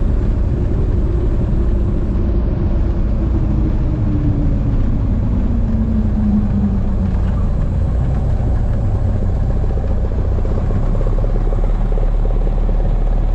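Steady drone of a light plane's piston engine and propeller, heard from inside the cabin. A tone in it slides down in pitch over the first half.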